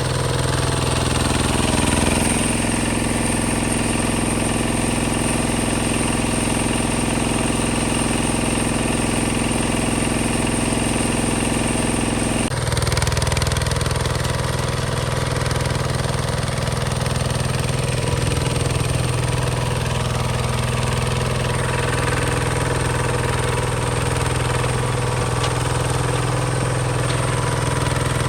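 Hinota HG Gold 155 DI tractor's diesel engine running steadily, its tone changing abruptly about twelve seconds in.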